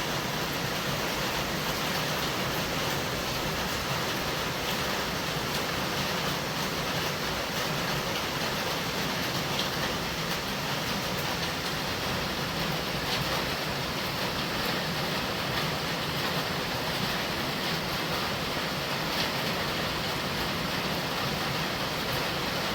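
Steady heavy rain falling, an even hiss with faint scattered drip ticks.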